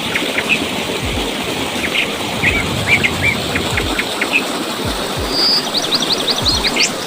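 Birds chirping in short repeated calls over a steady rushing noise, with a quick run of high rising chirps near the end.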